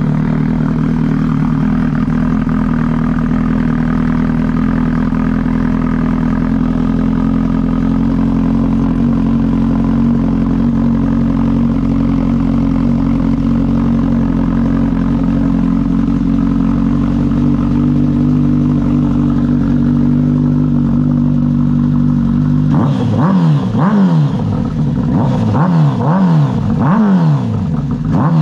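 Kawasaki ZX-10R inline-four, breathing through newly fitted Toce exhausts, idling steadily just after a cold start. About 23 seconds in, a run of quick throttle blips follows, each one rising and falling in pitch.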